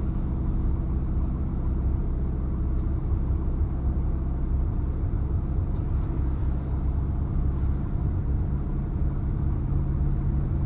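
A 1964 Chevrolet Impala SS's 300-horsepower 327 V8 running steadily on the move, its exhaust a steady low rumble through a 2.5-inch system with glass-pack-style mufflers.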